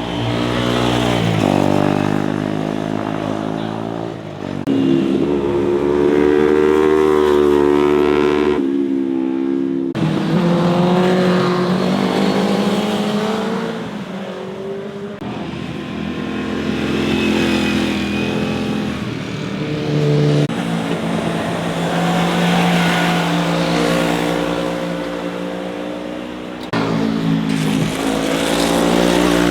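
Motorcycle engines running hard as several bikes ride through, one after another. Their pitch holds for a few seconds, then steps up or down with revs and gear changes.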